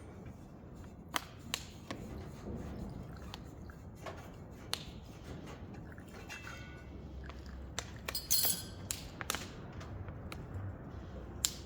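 Scattered light clicks and taps of hands fitting small parts and hoses back onto a forced-air heater, with a short clattering rattle about eight seconds in.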